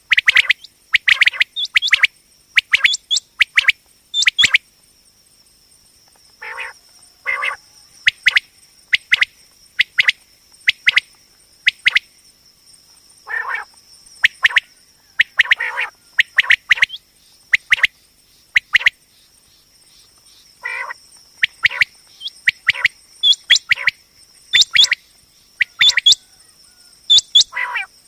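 Common quail calling: short, sharp notes given in quick clusters, with a few lower, harsher notes between them, the kind of recorded quail call played to lure quail.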